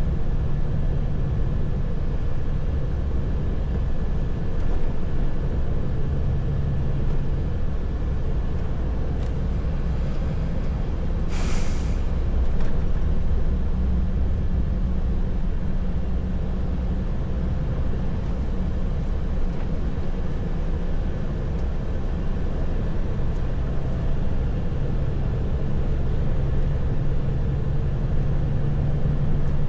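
Truck engine and road noise heard from inside the cab, a steady low drone while driving. About eleven seconds in there is one short hiss of air.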